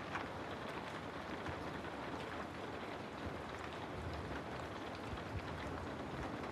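Steady rain ambience, an even hiss of falling rain with scattered faint drop ticks.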